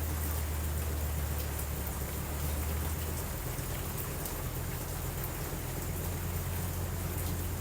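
Steady rain falling, an even hiss with scattered light ticks of drops, over a continuous low rumble.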